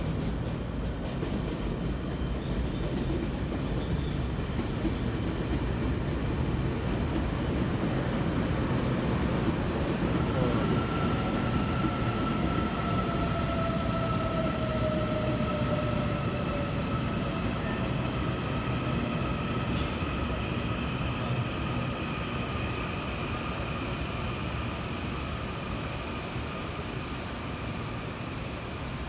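Taiwan Railways EMU800 electric multiple unit pulling into a station: a steady rumble of wheels and motors that swells, then slowly fades. From about ten seconds in, a high whine comes in and slides slowly down in pitch as the train brakes.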